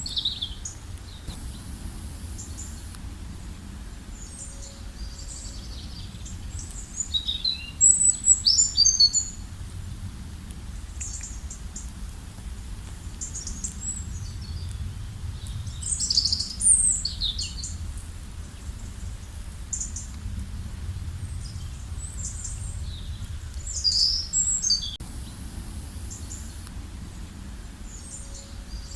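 Small birds chirping and singing in scattered high, quick calls and trills. The calls bunch into louder flurries a few times, over a steady low rumble.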